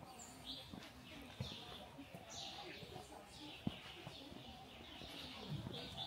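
Small birds chirping repeatedly, short downward-sliding chirps about once or twice a second, over a faint murmur of voices.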